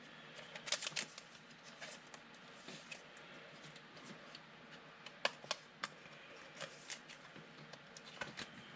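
Trading cards being handled and flipped through by hand: faint sliding of card stock with soft clicks and taps, a few sharper ones about a second in and again about five seconds in.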